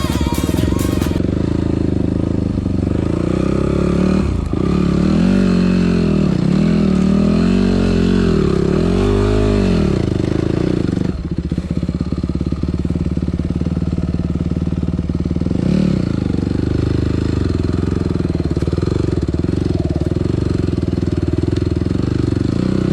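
Yamaha WR250F's single-cylinder four-stroke engine running, revving up and down in several swells for a few seconds, then dropping back about halfway through to steadier revs, with one brief rise later.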